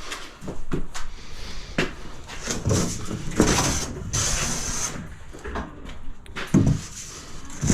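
Work noise from handling building materials: a series of short knocks and clatters, with longer scraping sounds around the middle.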